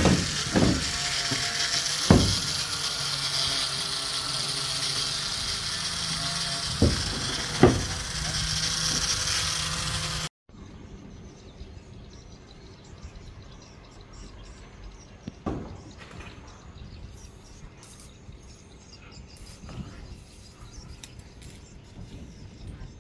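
Construction-site work noise: a steady hiss broken by several sharp knocks, then, after an abrupt cut about ten seconds in, much quieter background with a few faint clicks.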